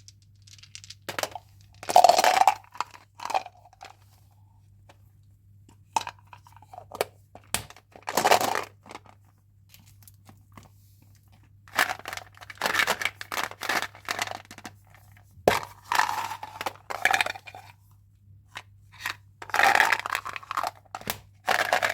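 Chewing gum packaging being torn open and crinkled by hand, in irregular bursts of rustling and tearing with short pauses between. A faint low hum runs underneath.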